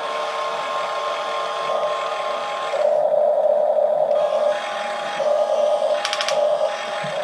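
Small electric motors of remote-control model excavators whining steadily in several tones. The whine gets louder about three seconds in, dips briefly, then picks up again. A short clatter comes about six seconds in.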